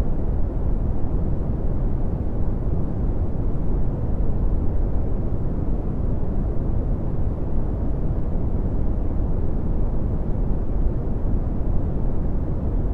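Steady red (Brownian) noise: an even, deep rumbling hiss with most of its energy in the bass, falling away toward the treble, unchanging throughout.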